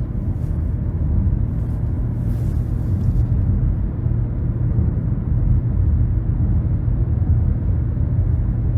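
Cabin noise of a 2023 Nissan Rogue with its 1.5-litre turbocharged three-cylinder and CVT, driving at a steady pace: a constant low rumble of tyres, road and engine.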